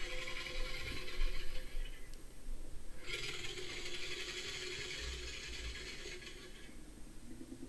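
Reconstructed dinosaur call played through a speaker: two long, raspy, rattling stretches with a short break of about a second between them.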